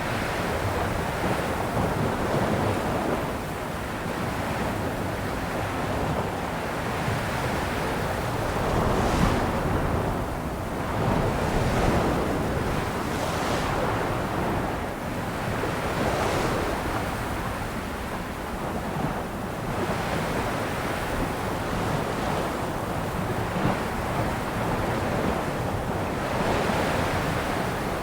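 Ocean waves breaking and washing on a shore, the surf swelling and easing every few seconds. Wind on the microphone adds a low rumble.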